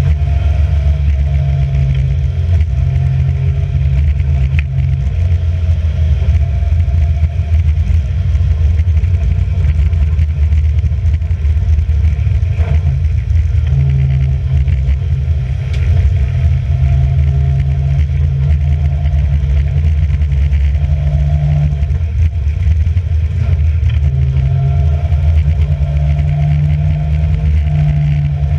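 Racing car engine running hard and continuously, its revs rising and falling in steps as it is driven through a lap.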